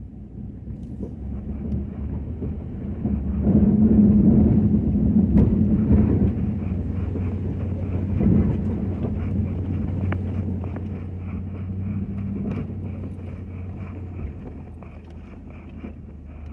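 Ford F-250 pickup engine running, swelling louder for a few seconds about three seconds in and then settling, with scattered knocks.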